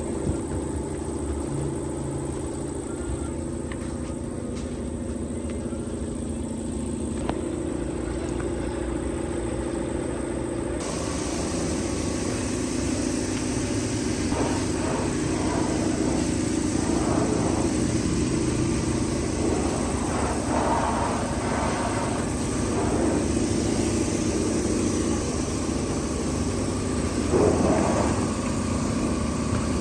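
A car engine running steadily, with a sudden change in the sound about eleven seconds in.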